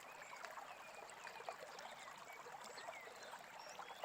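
Faint stream flowing steadily, with a few soft, brief bird chirps.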